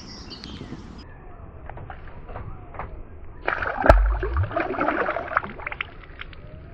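A small catfish thrown back into the river, hitting the water with a sudden splash about four seconds in, followed by a couple of seconds of splashing and sloshing water.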